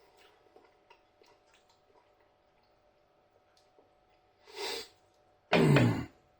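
A man chewing a mouthful with faint wet mouth clicks, then a quick breath and a loud, short voiced exhale through the nose, like a snort or grunt, near the end.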